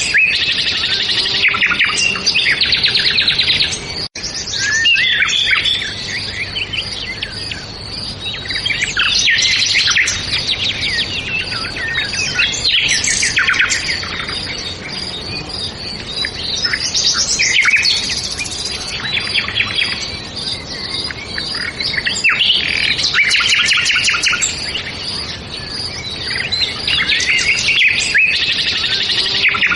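Several songbirds singing, with bursts of fast trills and chirps every few seconds over a faint steady background.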